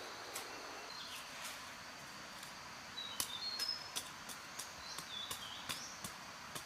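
Forest ambience: short bird chirps over a steady high insect drone, with scattered sharp ticks throughout.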